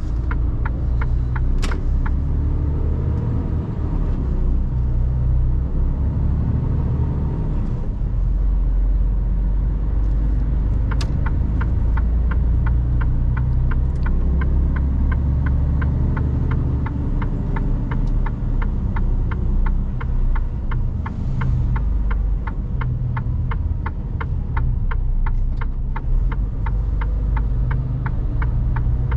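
Mercedes Actros truck's diesel engine and road rumble heard from inside the cab, a low drone that swells and eases as the truck moves. A fast, regular ticking runs alongside it.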